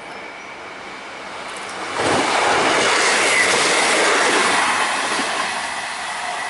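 East Midlands Trains Class 158 diesel multiple unit passing close at speed: a sudden rush of wheel and air noise about two seconds in, easing off as the train runs away.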